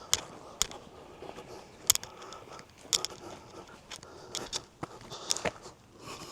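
Footsteps crunching and scraping along a woodland trail, with irregular sharp clicks and crackles.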